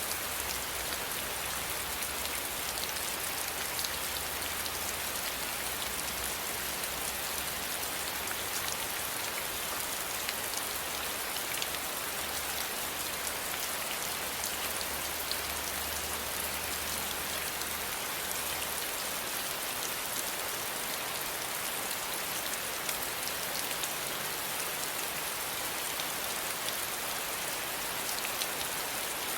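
Steady rain falling on a surface: a continuous even hiss dotted with many fine drop ticks. A low rumble sits underneath and fades out about two-thirds of the way through.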